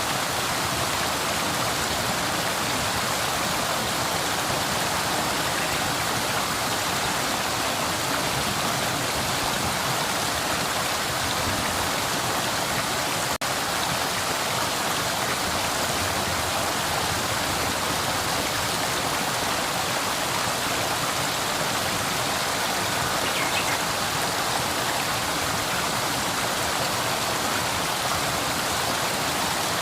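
A flowing river: a steady, even rush of running water.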